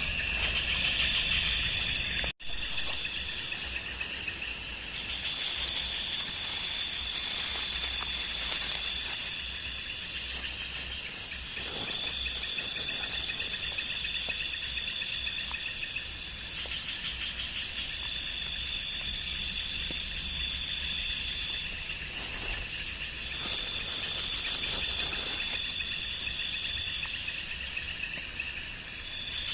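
Night insects in a tropical forest calling in chorus: a high, steady trill that comes and goes in phrases of a few seconds over a constant hiss of insect noise.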